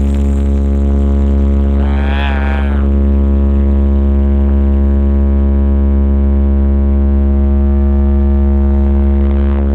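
A loud, steady, deep bass drone from a large sound system, held at one pitch throughout. A brief wavering higher tone rides over it about two seconds in.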